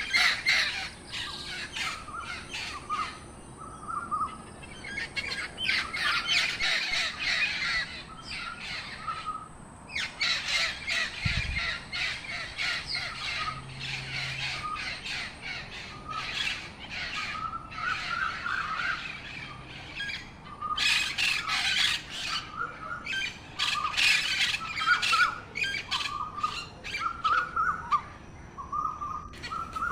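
A flock of birds calling: many harsh squawking calls overlapping with short chirps, coming in spells with brief pauses between them.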